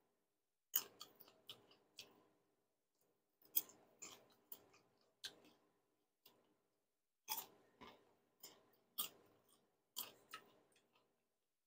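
A person chewing a mouthful of popcorn fried with watermelon, heard close up: irregular short, sharp crunches with near-silent gaps between them.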